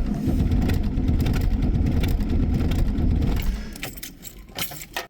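Starter cranking a 1982 Volvo 240's D24 inline-six diesel in the cold, the engine not catching. The cranking stops about three and a half seconds in, followed by a few light clicks.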